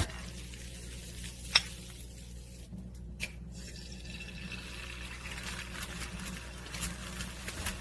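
Liquid simmering in a pot on a small wood-burning stove, over a steady low hum, with a sharp click about a second and a half in and a smaller one near three seconds.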